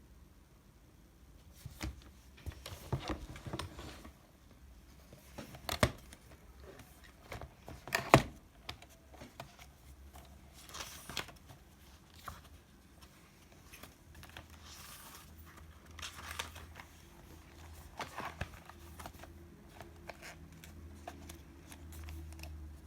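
Small objects and paper being handled: irregular clicks and knocks mixed with rustling, the loudest knock about eight seconds in. A faint low hum comes in during the second half.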